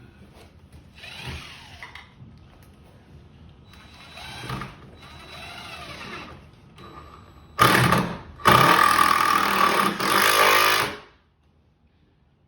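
Power drill running in several short bursts, then two louder runs near the end, the last lasting about two and a half seconds.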